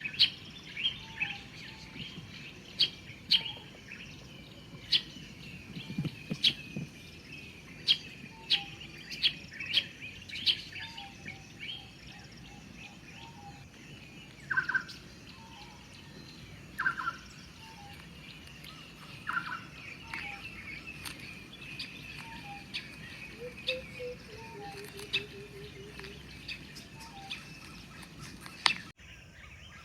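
Several wild birds calling and chirping, with many short sharp chirps throughout over a steady high background trill, a few louder lower calls near the middle, and a short run of low falling notes later on.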